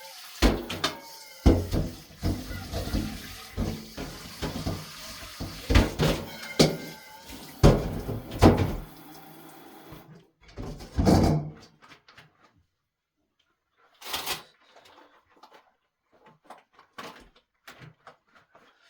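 Kitchen tap running into a sink while dishes are washed, with repeated clinks and clatters of dishes. The water is shut off about ten seconds in, followed by scattered knocks of dishes and utensils being set down.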